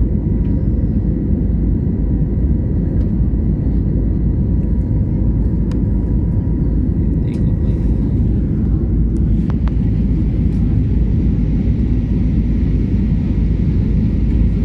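Steady low rumble of an airliner's engines and rushing air heard inside the passenger cabin during the climb after takeoff, with a few faint clicks.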